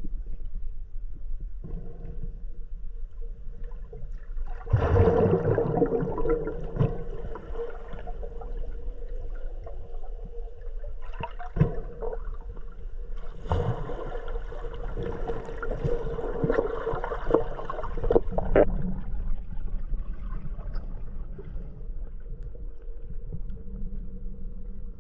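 Muffled underwater sound picked up through a camera housing: a steady low hum, two longer spells of gurgling water noise starting about 5 and 14 seconds in, and a few sharp knocks.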